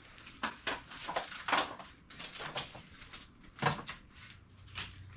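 Packaging rustling and crinkling, with small knocks and clicks, as a thermostat and its gasket are handled out of their wrapping; one sharper knock a little over halfway through.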